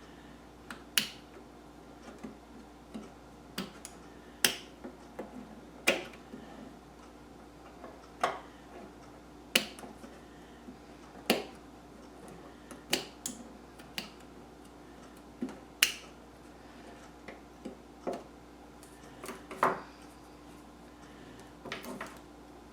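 Irregular sharp clicks and taps, about one every second or two, from hand work at a craft table: lace being trimmed and pressed onto an old tin.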